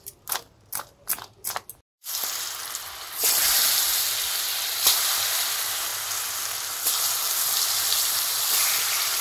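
Potato slices frying in hot oil in a wok: an even sizzle starts about two seconds in and gets louder a second later as more slices go in, then holds steady. Before it comes a quick run of sharp clicks.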